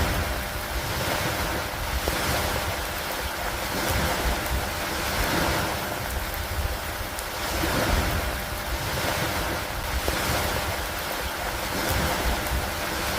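Steady rain and rushing storm noise that swell and ease about every two seconds, over a low rumble.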